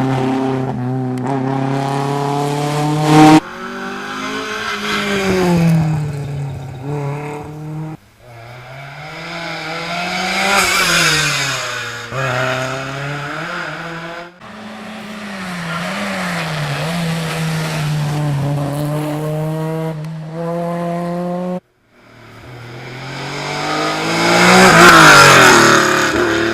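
Historic rally cars at full effort on a stage: engines rev up and drop back through gear changes as cars pass, in several short clips cut together. The loudest is one car passing close near the end.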